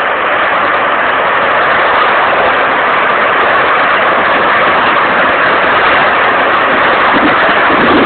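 Steady, loud rushing noise of a large fire burning at a chemical plant, most likely a gas flare.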